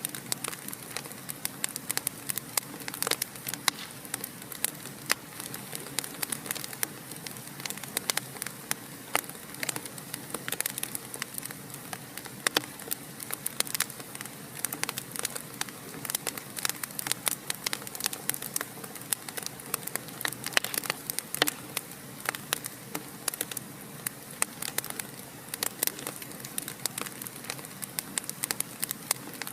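Wood fire burning in a fireplace, crackling and popping irregularly over a steady hiss, with several small pops a second and an occasional louder snap.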